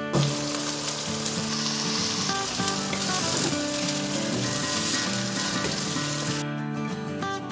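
Raw chicken pieces sizzling in hot oil with fried onions in a wok, stirred with a wooden spoon. The sizzle starts abruptly and dies down near the end, over steady background music.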